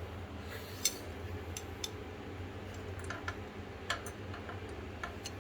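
Light metal clicks and taps from hand tools being handled at a motorcycle exhaust, about eight at uneven intervals, over a steady low hum.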